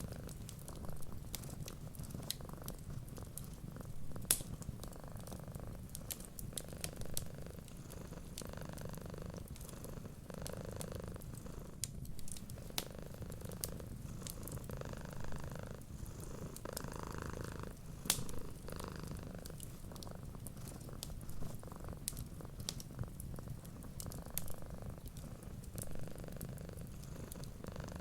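A cat purring steadily, the purr swelling and easing about every two seconds with its breathing, over scattered sharp crackles of a wood fire.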